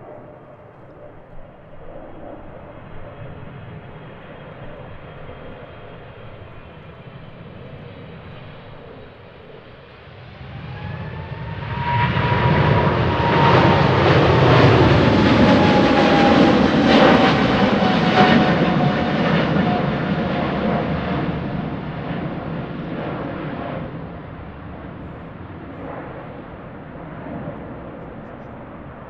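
Boeing 777F's twin GE90 turbofans passing low overhead. The jet noise swells about ten seconds in and peaks with a whining tone that falls slightly in pitch as the aircraft goes by, then fades.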